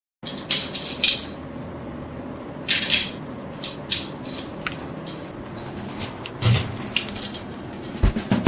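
Small metal parts clinking and rattling as they are handled, a scatter of light clicks and short scrapes over a faint steady hum.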